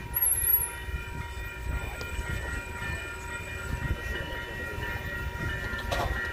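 Passenger train approaching the station: several steady high-pitched tones held over a low, uneven rumble.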